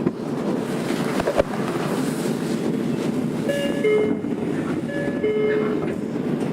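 Cabin running noise of a Tokyo Metro 02-series Marunouchi Line train drawing into a station, a steady rumble with a single knock about a second and a half in. In the second half a short two-note falling chime sounds twice.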